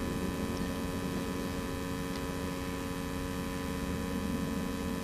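A steady hum with a low rumbling noise beneath it, holding the same pitch throughout.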